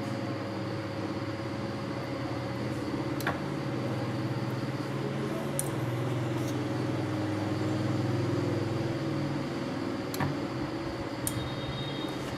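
A steady low mechanical hum with a few pitched tones that drift slowly, broken by a handful of sharp clicks.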